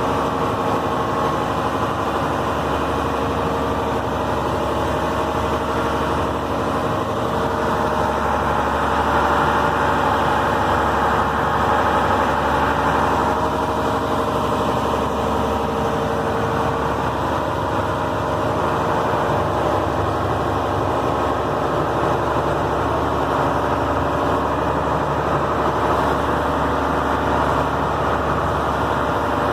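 Fishing boat's engine running steadily, heard on board.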